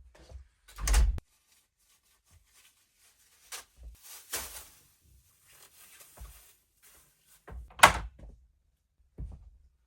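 Door bangs and knocks: two sharp loud bangs about seven seconds apart, with softer knocks and rustling between.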